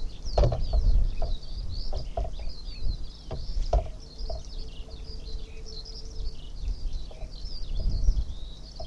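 Small birds chirping in quick, high twitters throughout, over a steady low rumble with a few short knocks.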